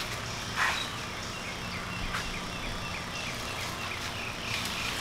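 A bird calling: a run of short, falling chirps, about four a second, lasting about three seconds. A brief rustle of tomato plants being handled comes about half a second in.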